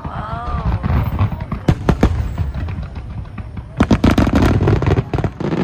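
Aerial firework shells bursting in a continuous barrage: a deep rumble of booms, sharp cracks about a second and a half to two seconds in, and a quick cluster of bangs near four seconds.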